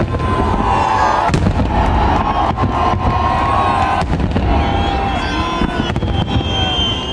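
Large fireworks display: continuous heavy booms of big aerial shells bursting, with sharp cracks about a second in and again about four seconds in. Wavering high tones run over the bangs.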